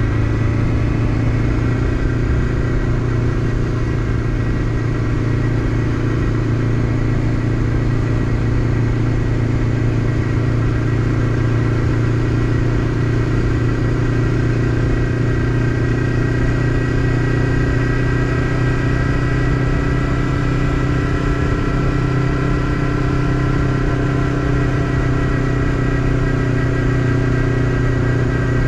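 Honda CBF500 parallel-twin motorcycle engine running steadily at cruising speed, heard from the rider's seat, its pitch creeping up slightly in the second half.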